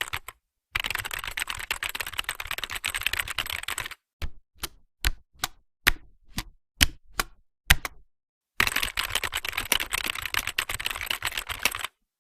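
Typing sound effect: runs of rapid key clicks, with a slower stretch in the middle of single keystrokes about two or three a second.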